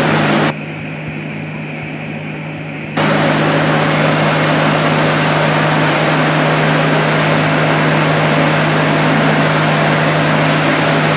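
Workshop machinery running steadily, a loud even noise over a strong low hum. The noise drops abruptly about half a second in and comes back just as abruptly about three seconds in.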